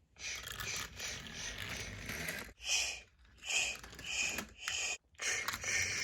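Steam locomotive sound effect: a long hiss of steam, then four slow chuffs as the engine sets off, then another long hiss.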